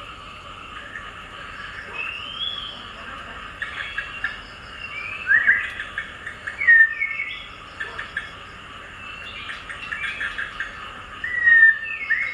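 Birds chirping and singing: a run of short whistled notes, some sliding up and others sliding down, with fainter rapid high chirps behind them.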